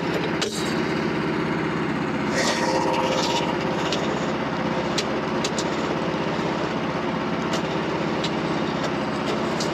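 Small gasoline engine of a portable bandsaw sawmill running steadily at an even speed, with a few light clicks or knocks over it.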